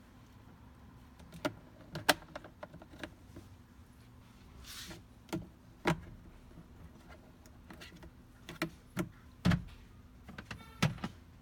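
Irregular plastic clicks and knocks from car interior parts being handled, with a short hiss about halfway through and a quick rattle near the end.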